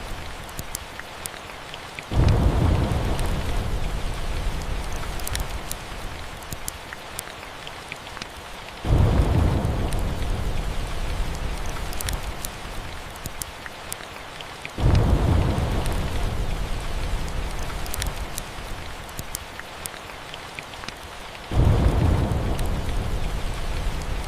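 Steady rain with thunder: four rumbles break in suddenly, about every six to seven seconds, and each fades away over several seconds. Sharp crackles from a fireplace run through it.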